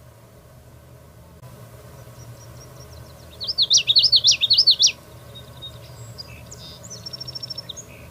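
Common yellowthroat singing: one loud phrase of quickly repeated rolling notes lasting about a second and a half, a few seconds in. Near the end comes a fainter, quick series of high notes, over a low steady hum.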